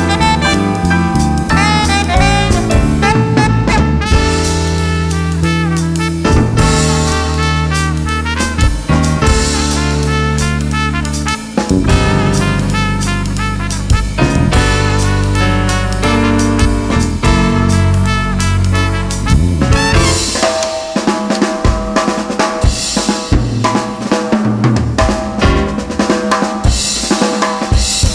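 A jazz band with drum kit, bass and melody instruments plays a swing groove. About twenty seconds in, the bass line drops out and the drum kit carries on largely alone with cymbals, snare and bass drum, as in a drum break.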